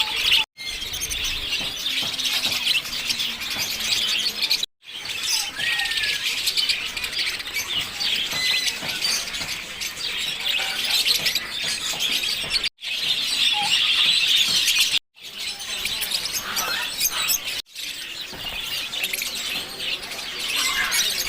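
Lovebirds chattering: many dense, high-pitched chirps and squeaks overlapping continuously, broken by a few short silences.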